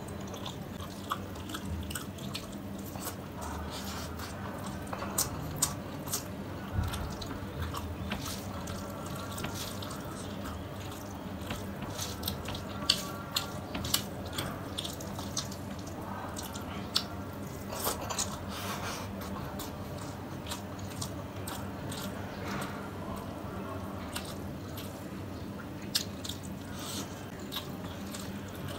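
Wet eating sounds from a mouthful of fish curry and rice: chewing and lip smacking with many short, sharp clicks. Fingers also squish and scoop the curry-soaked rice.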